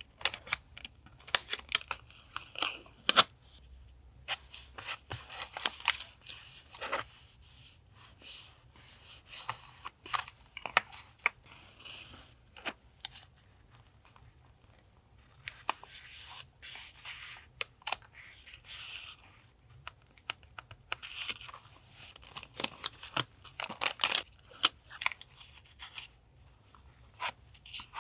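Paper being worked for a journal collage: rustling, tearing and cutting, with many small taps and clicks. It goes quieter for a couple of seconds about halfway through.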